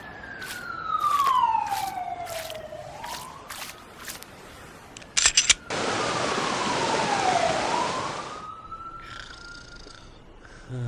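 Police siren wailing in slow falling and rising sweeps, with a run of sharp clicks over the first few seconds, a quick cluster of clicks about five seconds in, then about three seconds of loud hissing rush.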